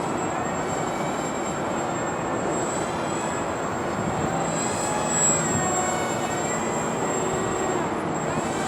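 Twin Emax 1106 8000kv brushless motors with 3-inch props on an RC flying wing, a steady high-pitched whine whose pitch drifts gently up and down as the plane flies about, over a rush of wind on the microphone.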